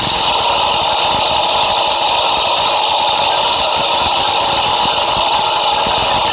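Steady, loud noise of a subway train in motion, even in level throughout, with no pauses or distinct events.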